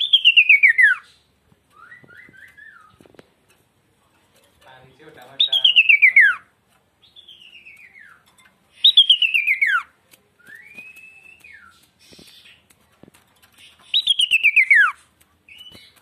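A sirtu songbird singing four loud songs. Each song is a fast run of thin whistles that slides down from high to low over about a second. Between the songs come softer, shorter arched whistles.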